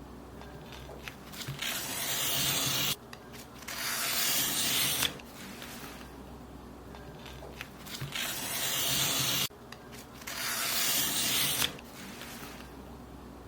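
Paper being cut, heard as two long, loud hissing strokes of about two seconds each, about 3 s and 9.5 s in, that start and stop sharply. Between the strokes is softer rustling with small clicks as the paper is handled.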